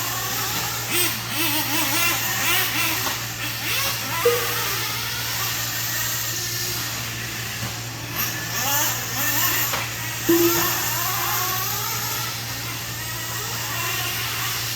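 Several small nitro engines of RC racing trucks running on the track, their pitch rising and falling over and over as they rev and back off through the corners, over a steady low hum.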